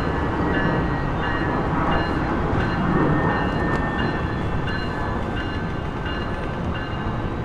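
Amtrak passenger train rolling slowly past, a steady rumble of wheels on the rails. Over it, a high ringing tone repeats about one and a half times a second.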